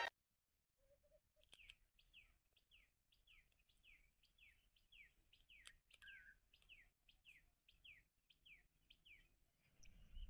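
Faint bird calls: a run of short, downward-slurred chirps, about two a second, starting about a second and a half in and stopping near the end.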